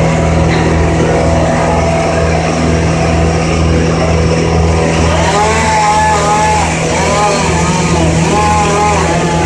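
An engine running steadily at a constant speed, a loud even drone, with three short rising-and-falling tones over it in the second half.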